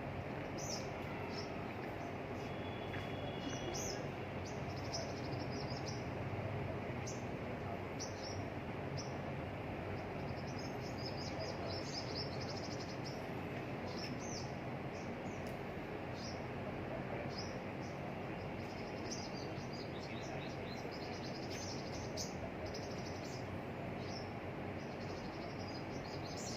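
Small birds chirping: short, high-pitched chirps come again and again over a steady background hiss.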